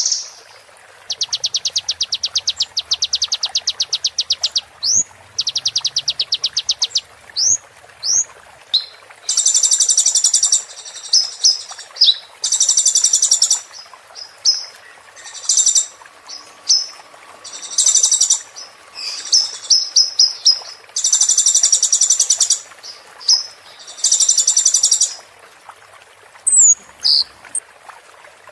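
Sunbird song: high, rapid trills of evenly repeated notes in phrases of one to three seconds, broken by short upswept and downswept whistles and quick chips.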